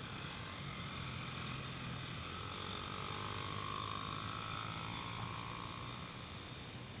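Small pit bike engine running as the bike rides around, growing a little louder midway and then fading off.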